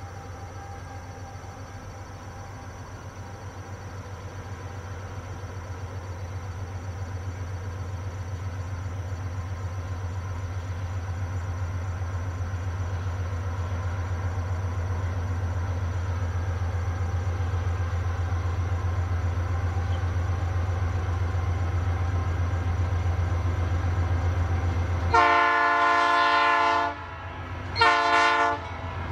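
Diesel locomotives of a freight train running with a steady low drone that grows louder as they approach. About 25 seconds in, the locomotive's multi-tone air horn sounds one long blast, then a short one near the end.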